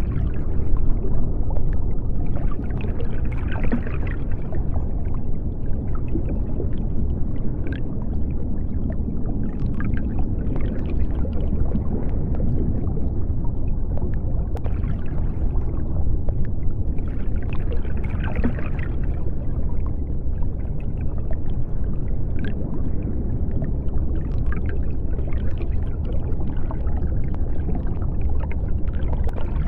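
Underwater ambience: a steady deep rumble, with bubbling swells every few seconds.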